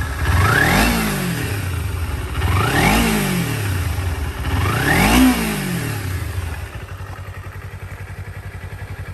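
Kawasaki Ninja 250R's liquid-cooled four-stroke parallel-twin engine being blipped three times, each rev rising quickly and falling back, then settling to a steady idle near the end. The engine runs cleanly.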